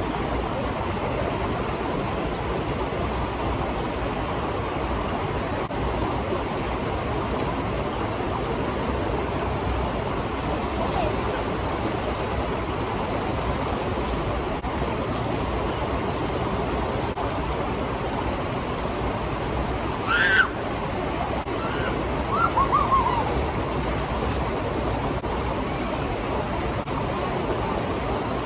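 Steady rush of a waterfall and river water. A couple of short, high calls rise above it about two-thirds of the way through.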